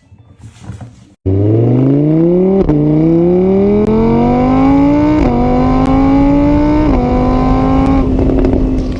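A vehicle engine accelerating hard: it cuts in suddenly about a second in, its pitch climbs and falls back at each of three gear changes, then holds steady near the end.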